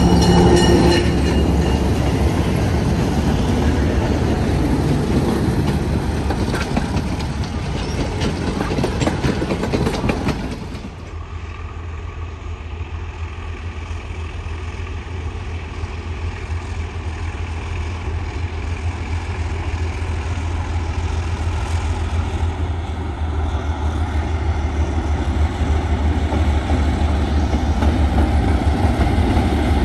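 Diesel passenger train on the move: a horn note dies away about a second in, then a dense rumble of the train rolling by. About ten seconds in the sound drops abruptly to a steady low diesel engine rumble, which grows louder toward the end.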